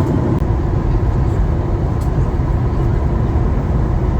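Steady cabin noise inside a Boeing 737 MAX 8 on final approach: the rumble of its CFM LEAP-1B engines and the rush of air past the fuselage, deep and even throughout.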